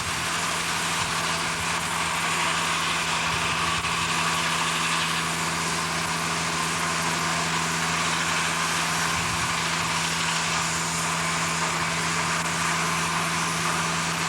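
Steady mechanical drone of heavy machinery running, with a constant low hum, like an engine at idle.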